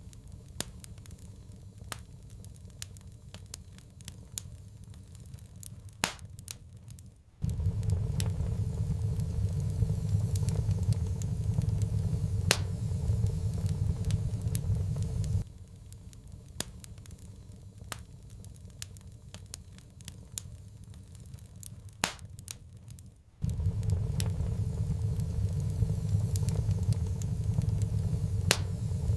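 Wood fire in a fireplace crackling, with scattered sharp pops. A steady low rumble cuts in about seven seconds in, drops out around the middle, and comes back later.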